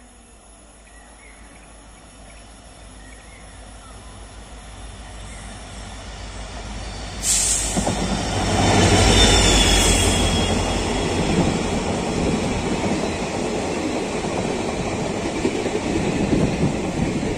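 A locomotive-hauled passenger train approaching and running past close by. Its rumble grows steadily for about seven seconds, jumps suddenly as the locomotive reaches the platform and is loudest as it passes, then stays a steady rumble and rattle as the coaches go by.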